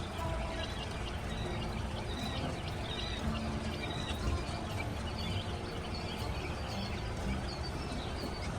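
Baby chicks peeping: short, high, repeated peeps over a steady low background rumble.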